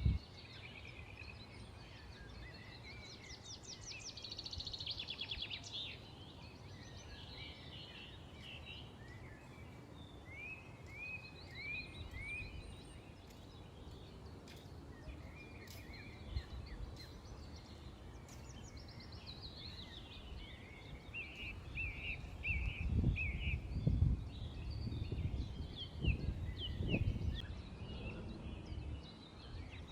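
Several small birds chirping and twittering: quick trills of rapid repeated notes, and runs of short falling chirps, over a steady background hiss. Near the end, a few low rumbles and thumps sit under the birdsong.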